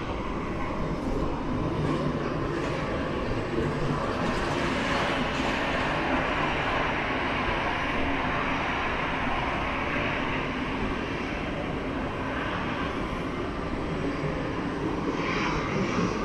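Jet airliner engines running with a steady rush, which swells about four seconds in.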